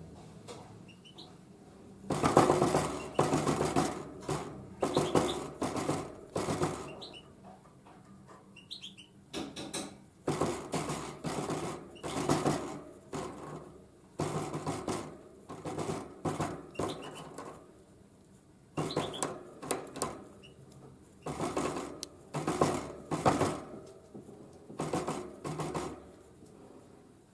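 A tit hammering at sunflower seeds with its beak: short bursts of rapid tapping, repeated about once a second with brief pauses.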